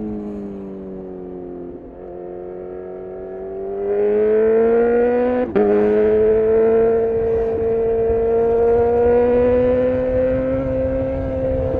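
2018 Honda CB1000R's 998 cc inline-four through a full Black Widow exhaust: the note falls off as the throttle closes, then rises as it accelerates. About five and a half seconds in, a quick click and drop in pitch mark an upshift, after which it pulls steadily and gradually higher in the next gear, over constant wind rumble.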